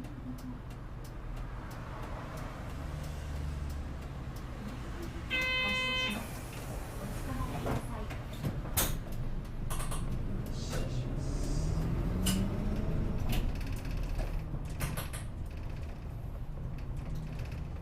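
A city route bus at a stop: the engine idles, and about five seconds in a short door chime sounds, followed by a hiss of air from the pneumatic doors closing and some clunks. The engine then revs up with a rising pitch as the bus pulls away from the stop.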